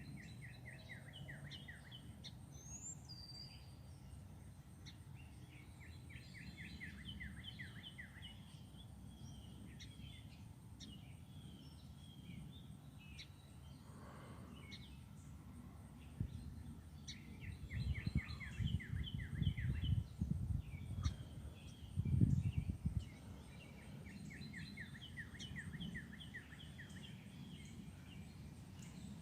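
A songbird sings the same short, rapid trilled phrase four times, several seconds apart, over faint outdoor background noise. Low rumbling comes and goes around the middle.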